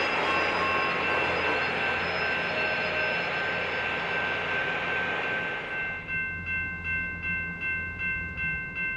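A train rolling along the rails, its broad wheel noise fading out about two-thirds of the way through. Once it fades, a railroad crossing bell is left ringing about two and a half strikes a second over the low hum of the locomotive's diesel engine.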